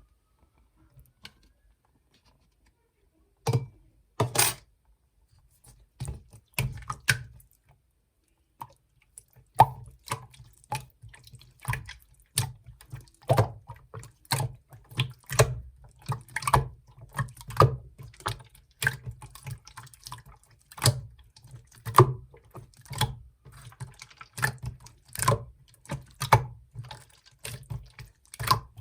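Clear slime being squeezed and pressed by hand, giving short, sharp pops and clicks at irregular intervals: a few at first, then nearly continuous from about ten seconds in.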